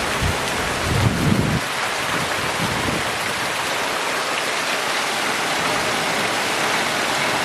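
Heavy rain falling steadily, an even hiss, with a brief low rumble about a second in.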